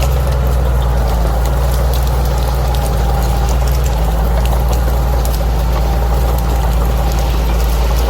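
Bulldozer's diesel engine running steadily with a deep, even drone and no change in pitch.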